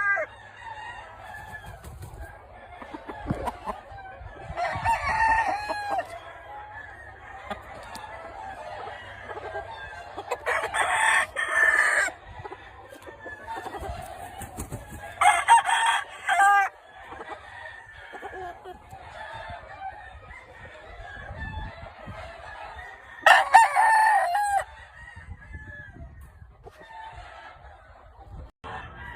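Roosters crowing, four loud crows each about a second and a half long, over steady clucking and calling from a flock of chickens.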